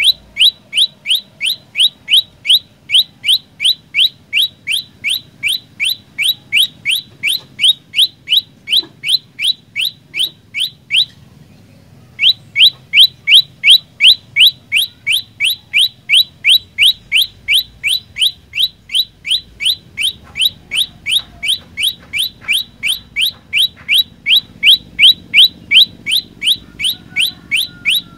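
Olive-backed tailorbird singing a long, fast run of short, high, rising notes, about three a second, breaking off for about a second around eleven seconds in and then resuming.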